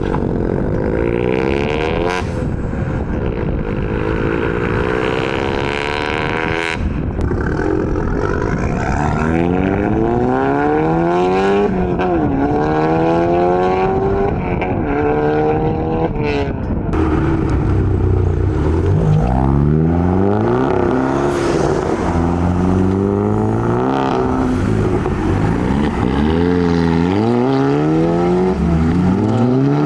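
Modified cars' engines revving hard and accelerating away one after another, each rising in pitch through a gear, dropping at the shift and rising again.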